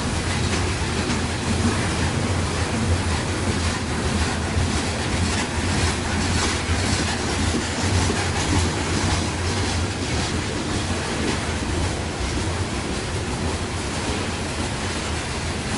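Freight cars of a coal train rolling past on the rails: a steady rumble of wheels on track with a scatter of faint clicks.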